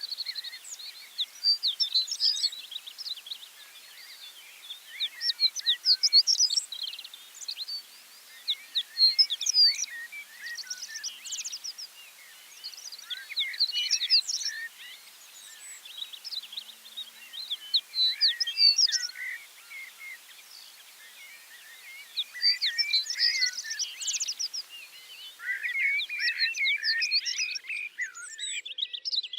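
Several songbirds singing and chirping over one another in bouts of a few seconds, over a light outdoor hiss that drops away near the end.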